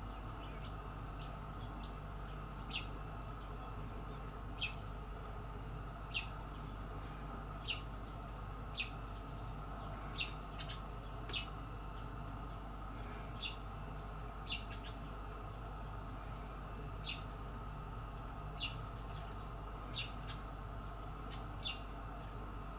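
A bird outside gives a short, high chirp every one to two seconds, about fifteen times, over a faint steady low hum.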